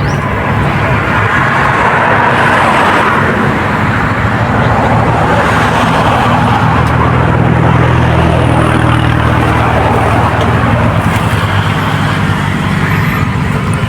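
Motor traffic: a steady engine hum under a broad rushing noise that swells twice, once about two seconds in and again near the middle.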